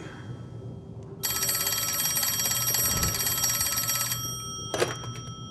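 Telephone bell ringing: one ring lasting about three seconds, starting about a second in. A brief sharp sound follows near the end.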